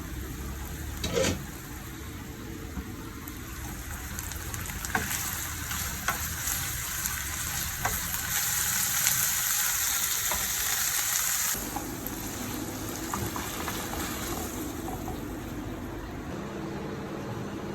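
Potato chicken snacks frying in hot oil, a steady sizzle with a few clicks. The sizzle grows louder about halfway through, then drops suddenly about two-thirds of the way in.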